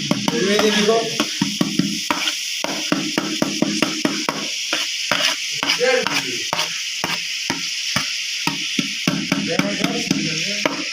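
Metal ladle stirring and scraping in a pot of food frying in hot oil: rapid, irregular knocks of metal on metal over a steady sizzle.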